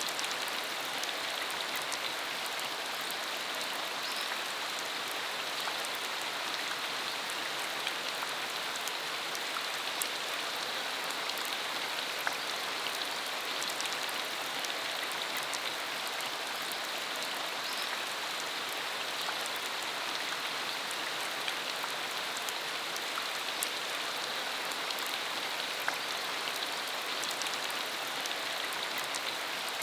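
Steady rain falling on a dirt country road: an even hiss of rainfall with many individual drops ticking through it.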